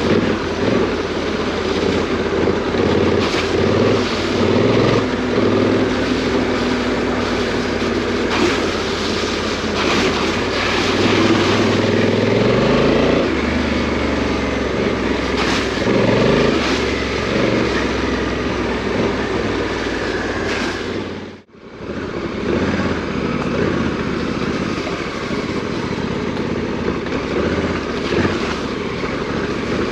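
Adventure motorcycle's parallel-twin engine running off-road, its pitch rising and falling as the throttle is opened and closed, with wind rushing over it. The sound cuts out briefly about two-thirds of the way through, then the engine carries on.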